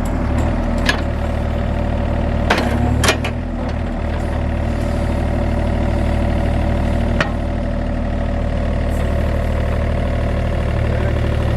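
John Deere 35G mini excavator's diesel engine running steadily, with a few short sharp knocks about one, two and a half, three and seven seconds in.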